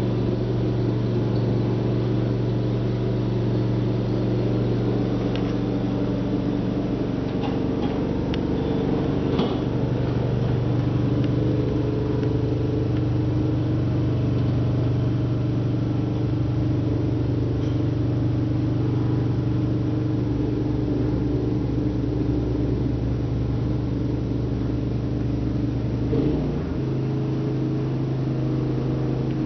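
Simplicity snow blower's engine running steadily under load, its pitch shifting slightly about ten seconds in and again near the end.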